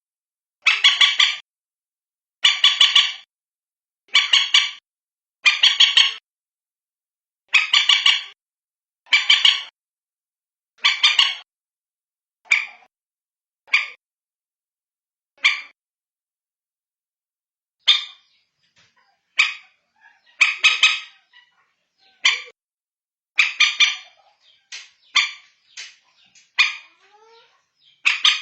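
Common moorhen calling: loud, harsh, stuttering calls repeated about every one and a half seconds. They become shorter and sparser partway through, pause for about two seconds, then come quicker and irregular near the end.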